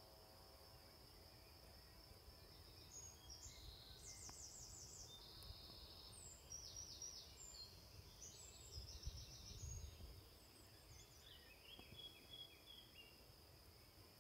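Faint outdoor ambience: a small songbird sings short phrases of rapid repeated high notes from about three seconds in, over a steady thin high whine. Gusts of wind rumble on the microphone, strongest about two-thirds of the way through.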